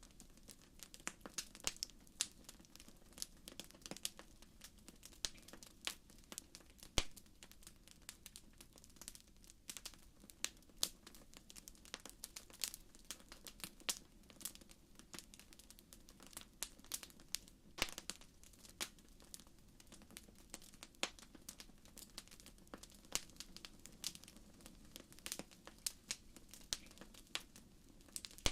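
Wood fire burning in a fireplace: a steady stream of irregular sharp crackles over a low hiss, with a few louder pops.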